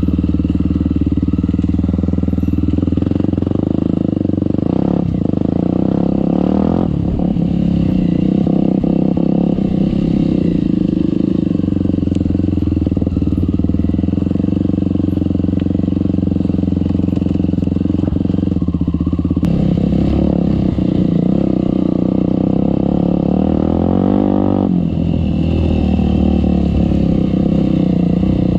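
Off-road trail motorcycle engine running at low revs, its note shifting up and down a few times as the bike is ridden slowly.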